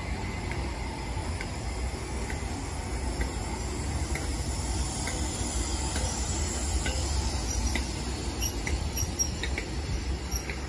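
Train of hauled HST coaches and a Class 43 power car rolling slowly past, with a steady low rumble and many short, high-pitched squeaks scattered through it.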